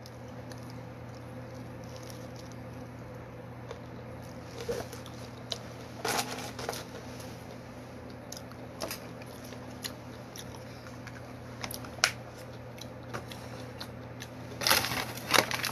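A person chewing fried fish with the mouth closed: soft, scattered wet clicks and squishes over a steady low hum, with a louder cluster of noises near the end.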